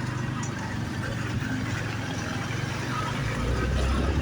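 Motorbike engine running steadily, with road noise, while riding through traffic. A deeper rumble swells near the end.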